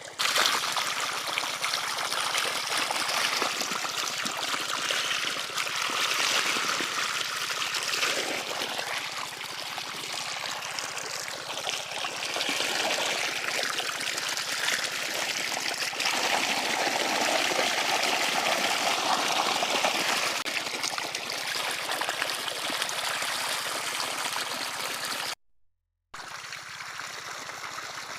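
Irrigation water from a diesel pump's outlet gushing steadily into a field. The sound cuts out briefly near the end.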